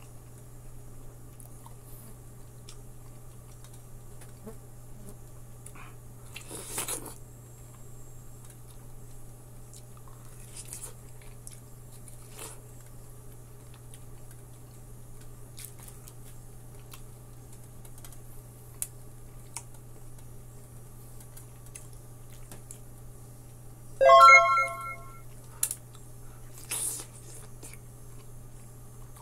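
Soft, wet mouth sounds of someone biting and chewing ripe orange-fleshed melon off the rind, with faint scattered clicks over a steady low hum. Near the end a loud chime-like ringing tone of several pitches sounds for about a second, followed by a couple of sharp clicks.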